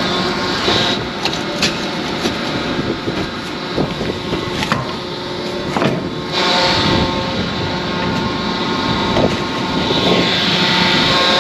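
Scania truck's engine running steadily, with scattered clicks and knocks through the first half and a hiss that rises about six seconds in and again near the end.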